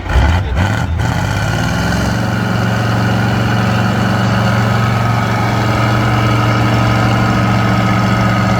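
Heavy truck engine running, rising a little in revs over the first couple of seconds and then held at a steady speed, with a thin high whine above it. A few sharp knocks come in the first second.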